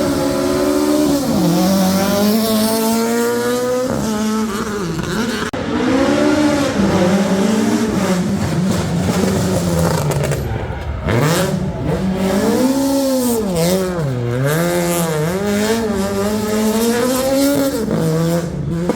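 Rally car engine revving hard through a slalom. It climbs in pitch through the gears near the start, then rises and falls again and again as the throttle comes on and off, with sharp crackles on lift-off about ten to twelve seconds in.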